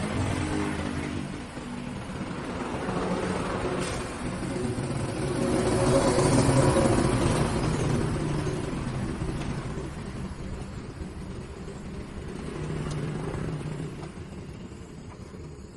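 Motor vehicle engines passing by, the sound swelling and fading several times, loudest about six seconds in.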